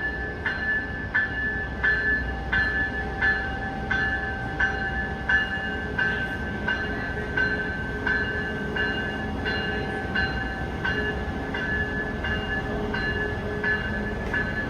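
Locomotive bell ringing steadily, about three strikes every two seconds, each strike ringing on into the next, over a low rumble.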